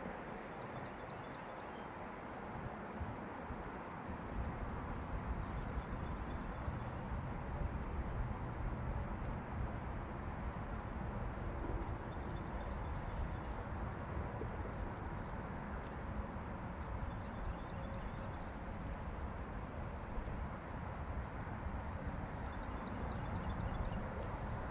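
Footsteps of a person walking a park path, over steady outdoor background noise, with a low rumble that sets in about four seconds in.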